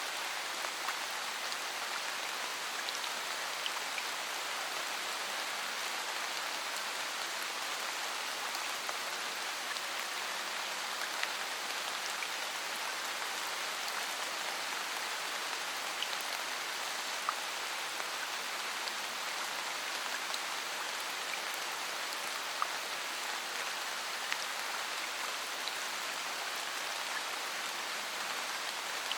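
Steady rain: an even hiss of falling rain with scattered sharper drop ticks standing out every second or two. No thunder is heard.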